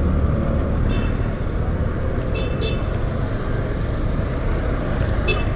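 Steady low rumble of a motorbike riding along a road, with short high horn toots: a faint one about a second in, a quick double beep about two and a half seconds in, and another near the end.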